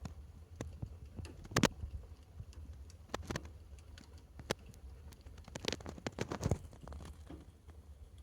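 Fire crackling in a fireplace: irregular sharp pops and snaps, the loudest about a second and a half in and a run of them later on.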